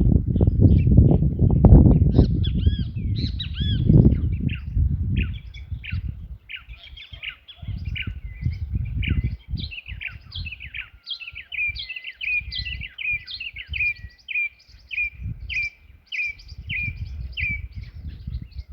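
Several wild birds calling and chirping at once, with one bird in the second half repeating a short note about twice a second. A low rumble, loudest in the first few seconds, lies under the calls.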